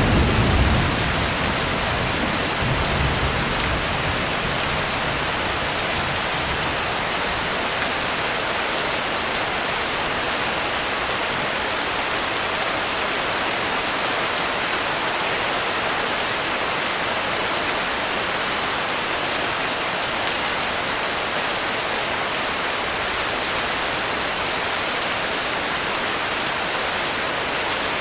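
Steady rain falling, an even hiss. In the first few seconds a low rumble of thunder fades out, with a second, weaker rumble a few seconds in.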